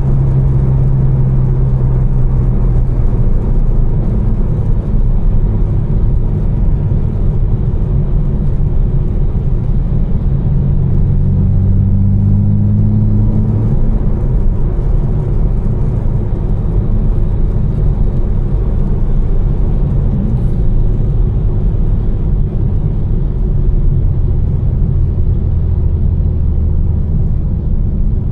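Tuned twin-turbo straight-six of an 800 hp BMW M4, with catless downpipes and an Fi exhaust, cruising under steady load. Its low drone shifts pitch a few times with engine speed over continuous road and tyre noise.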